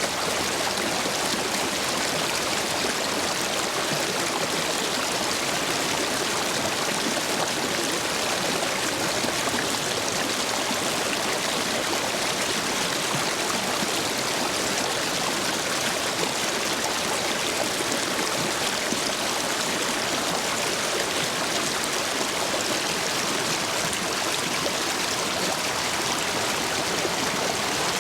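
Urban stream rushing steadily over and between stepping stones, running high after days of heavy rain: an even, unbroken wash of flowing water.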